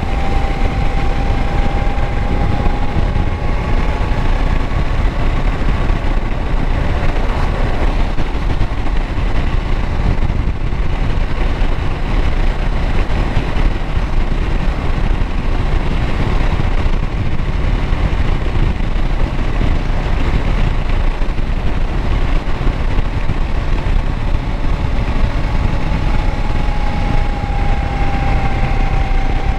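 2016 Kawasaki Versys 650's parallel-twin engine running steadily and loudly. A faint high whine holds for a few seconds near the start and comes back near the end.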